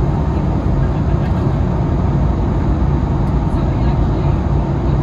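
Steady cabin noise inside an Airbus A320neo-family jetliner: even jet-engine and airflow noise, strongest in the low end, with a faint steady hum.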